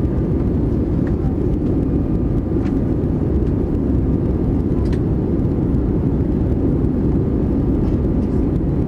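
Airbus A320-200 jet engines and airflow giving a steady, even low rumble, heard from inside the cabin, with a few faint clicks.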